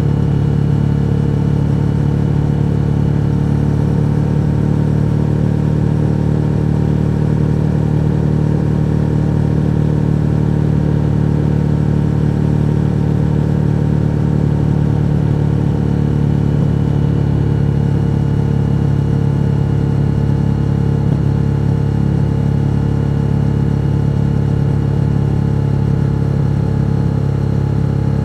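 Suzuki SV1000's 996 cc V-twin engine running at a steady pitch, with no rise or fall in revs.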